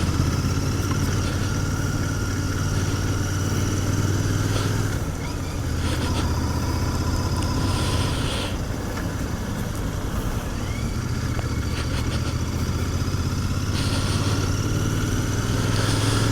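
Royal Enfield Continental GT 650's parallel-twin engine running steadily through its stock exhaust on the move, the note dipping briefly about five seconds in.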